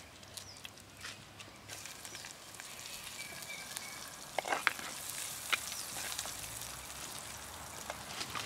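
Sliced onion and green chilies sizzling in hot oil in a clay pot over a wood fire. The sizzle grows louder about halfway through, with a few sharp knocks around then.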